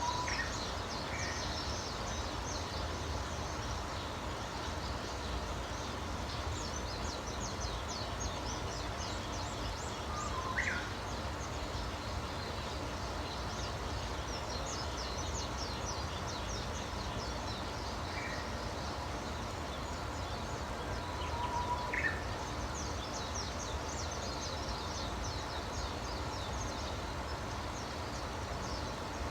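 Wild birds singing over a steady low background rumble. High, rapid trilling phrases come again and again, with a few short, lower single calls now and then.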